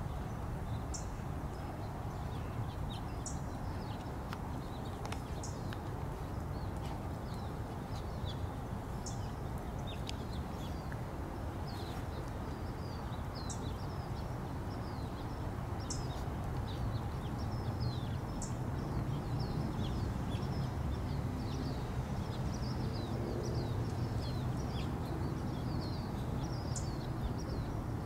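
Small birds chirping again and again, the chirps coming thicker in the second half, over a steady low rumble of outdoor background noise.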